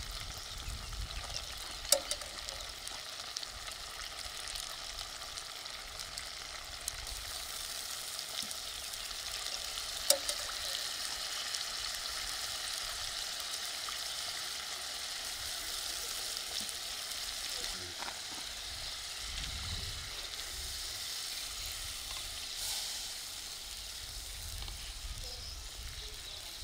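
Mince and tomato sauce sizzling steadily in a pan, with two sharp clicks about two and ten seconds in.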